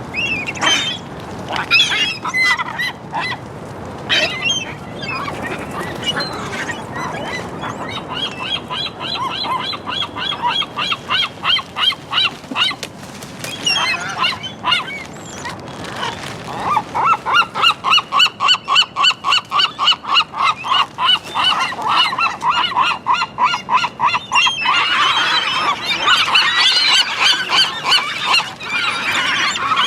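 Gulls calling: loud, harsh, repeated notes, mostly in long rapid runs of about three a second, with several birds overlapping near the end.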